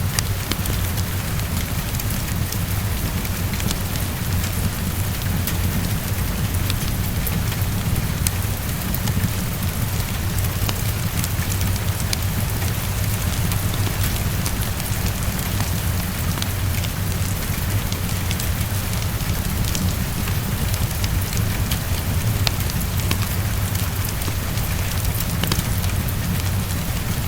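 Heavy rain falling steadily, with a deep low rumble underneath, mixed with a fireplace crackling in small scattered pops.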